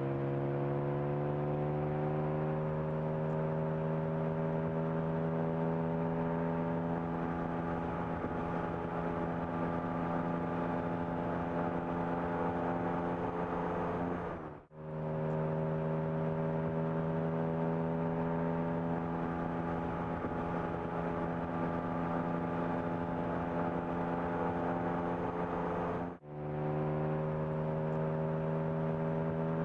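Porsche 718 Cayman GT4 RS's flat-six engine running at a steady, slowly rising pitch. The sound breaks off sharply twice, once midway and once near the end, and picks up again each time.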